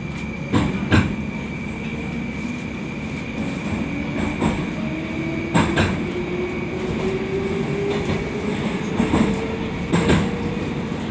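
Moscow Metro 'Oka' (81-760/761) train accelerating out of a station. The traction motor whine rises steadily in pitch. Pairs of wheel clacks over rail joints come about a second in, near the middle, and again near the end.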